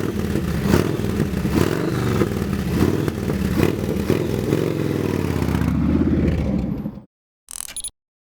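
Motorcycle engines running and revving, with some rattle. The sound cuts off abruptly about seven seconds in, and a brief burst follows just before the end.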